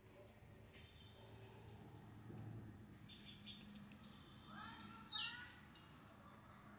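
Quiet outdoor background with a few faint bird chirps; the clearest is a short, quick falling note about five seconds in, heard again at the very end.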